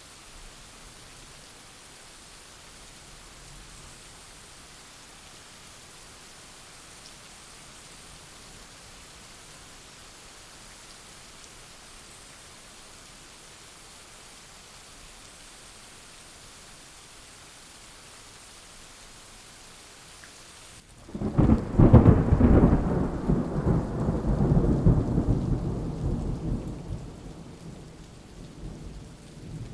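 Steady rain falling, then about two-thirds of the way in a sudden loud thunderclap that rolls and rumbles and slowly dies away over several seconds. The rain hiss sounds duller from the clap onward.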